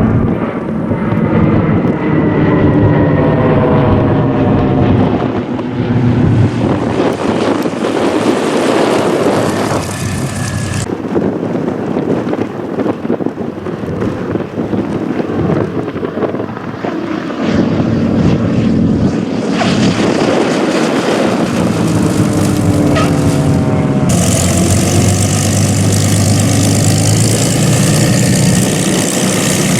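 Piston-engine propeller airplanes flying low past, twice, with the engine note falling in pitch as each goes by. Between the passes the engine drone carries on, and its character shifts abruptly a few times.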